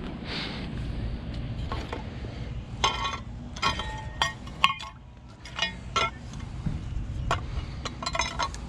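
Light metallic clinks and taps, a few at a time from about three seconds in: metal hardware being handled. A steady low rumble runs underneath.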